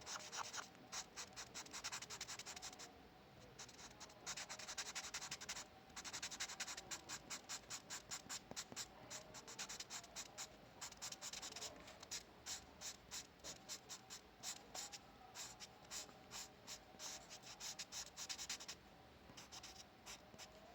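A drawing tool scratching on paper in quick, short, repeated strokes, with brief pauses a few seconds in and near the end.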